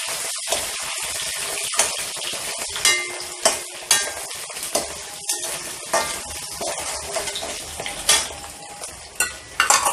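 Shredded chicken sizzling in hot oil in a wok, stirred with a perforated metal spatula. A steady frying hiss runs under frequent sharp clicks and scrapes of the spatula against the pan, with a few louder knocks near the end.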